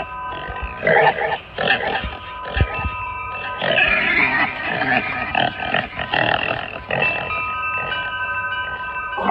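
Halloween tabletop animatronic playing its recorded soundtrack: choppy, rough monster-like vocal sounds over several held eerie electronic tones.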